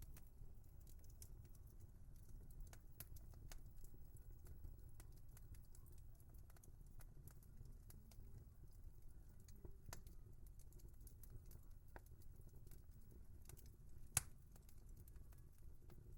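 Wood fire crackling softly: scattered small pops and snaps over a low, steady rumble, with one sharp, loud pop near the end.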